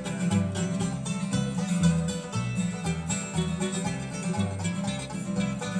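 Bluegrass band playing an instrumental break: a banjo rolling quick picked notes over acoustic guitar and a walking bass.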